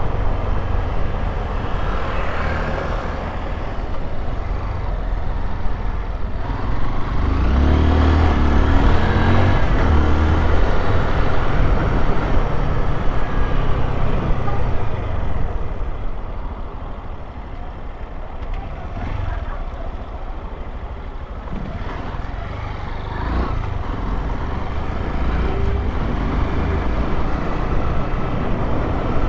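Honda XRE 190 motorcycle's single-cylinder engine running while riding, with wind rumble on the microphone. The engine grows louder about seven seconds in and eases off again about halfway through.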